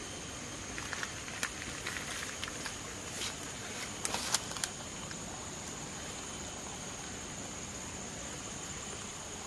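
Tropical rainforest ambience: a steady, high-pitched insect drone over a constant hiss, with a run of small, sharp clicks and crackles in the first half.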